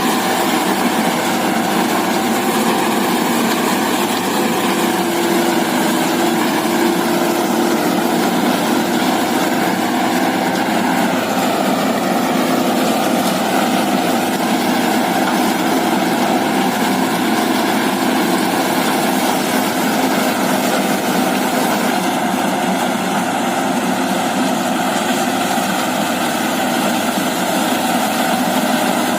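Eicher tractor's diesel engine running steadily at a constant speed, its pitch sagging briefly about twelve seconds in.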